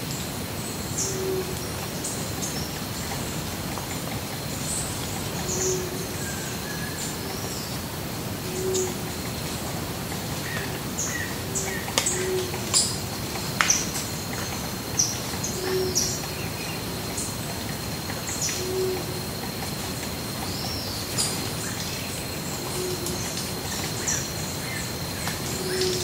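A chorus of many wild birds calling: short high chirps and twitters scattered throughout, busiest in the middle, over a low hooting note that repeats every one to three seconds. A faint steady high-pitched tone runs underneath.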